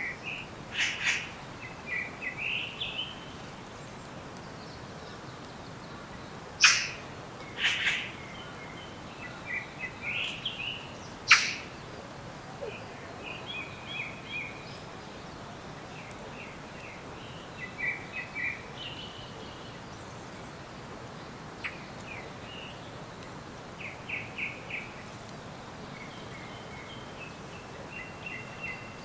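Forest songbirds calling and singing: several sharp, loud calls a few seconds apart, mostly in the first half, with many shorter chirping phrases in between, over a steady background hiss.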